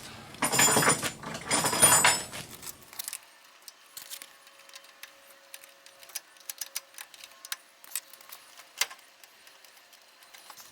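Metal parts of a riding lawn mower's wheel and axle being worked as the wheel is pushed back on: two short, loud scraping clatters in the first two seconds, then scattered faint clicks.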